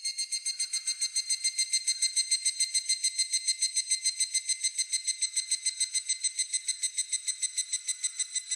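Higurashi (evening cicada, Tanna japonensis) singing: a fast, ringing trill of evenly repeated pulses, about eight a second, held steady and loud.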